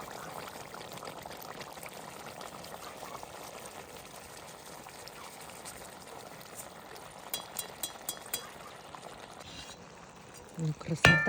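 Steady sizzling from a cooking pot, like plov ingredients frying in hot oil, fading slightly. A few light clinks come near the end, then a loud ringing metal clang.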